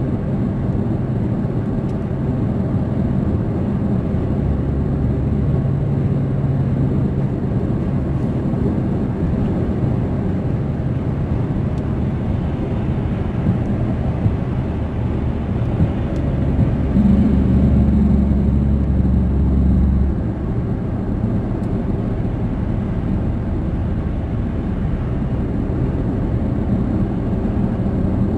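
Steady low rumble of road and engine noise inside a moving car at highway speed. It swells slightly for a few seconds past the middle.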